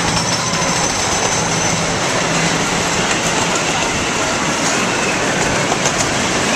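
Open passenger cars of a small park train rolling along the track, heard from on board as a steady running rumble of wheels on rails.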